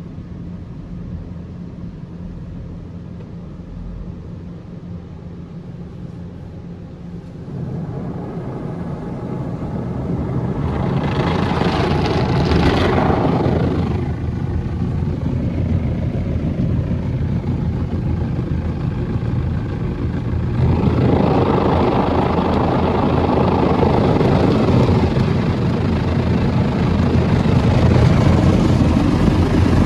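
Istobal M1 rollover car wash machine working over the car, heard from inside the car. A low steady hum gives way after about seven seconds to louder washing noise, which is loudest around twelve seconds in and rises again from about twenty seconds on.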